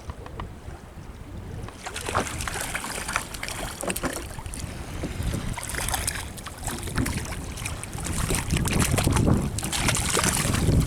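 Wind gusting on the microphone aboard a small open boat, with water slapping the hull and scattered small knocks; the low wind rumble builds near the end.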